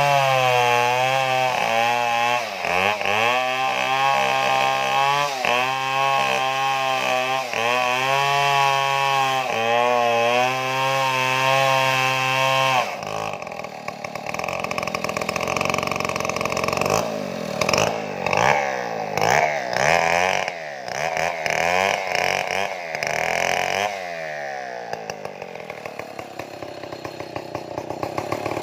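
Stihl two-stroke chainsaw cutting wood, its engine pitch dipping again and again under load and recovering. About halfway through the sound changes to uneven revving up and down, then runs quieter near the end before picking up again.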